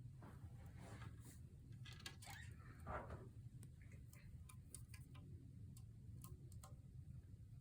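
Faint, near-silent room with the steady low hum of a ceiling fan, scattered small irregular clicks, and a brief soft budgie chirp about two to three seconds in.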